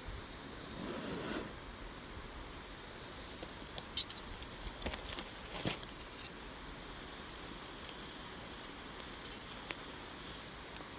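Small hard objects being handled: a sharp clink about four seconds in, then a run of lighter clinks and taps, over a steady background hiss.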